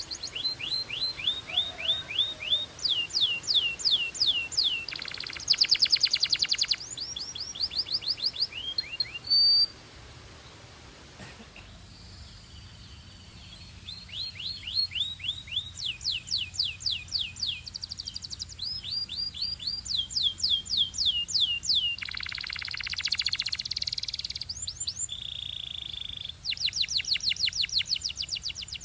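Belgian canary singing: fast trills of rapidly repeated falling notes, mixed with a few harsher buzzy rolls. The song breaks off about ten seconds in and resumes a few seconds later.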